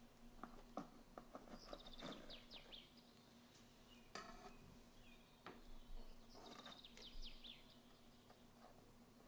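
Near silence with faint bird chirping: two short runs of quick chirps a few seconds apart, over a steady low hum and a few soft clicks.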